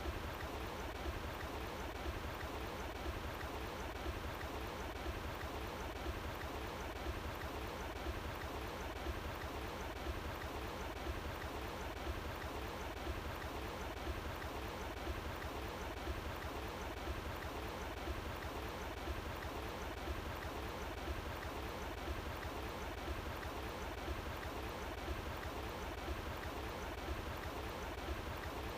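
Running water flowing steadily outdoors, a continuous rushing with a low rumble underneath.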